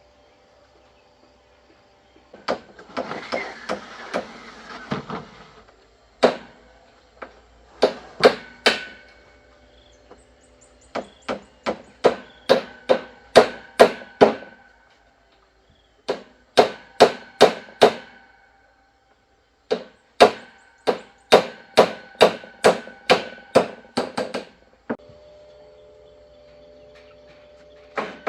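Hammer driving nails into wood: runs of sharp ringing strikes, about three a second, broken by short pauses, with a stretch of scraping and lighter knocks near the start.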